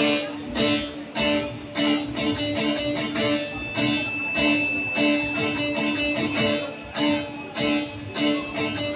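Guitar music with plucked strings sounding in a steady, repeating rhythm.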